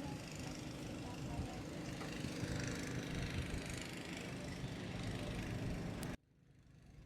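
Steady low outdoor rumble with a faint hum, cutting off abruptly about six seconds in, then a much quieter hush.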